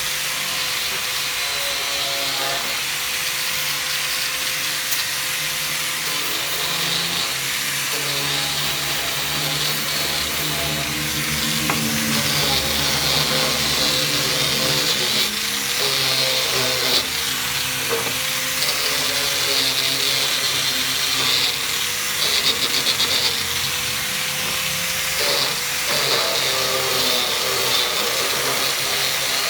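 Electric hand grinder running steadily against the amplifier's steel cover, scrubbing off rust; the motor's pitch sags briefly several times as it is pressed into the metal.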